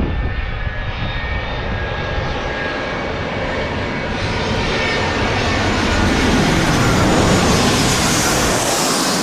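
Jet airliner passing close on landing approach: engine noise with a steady fan whine, swelling to its loudest about seven seconds in, with a rising hiss near the end as it goes by.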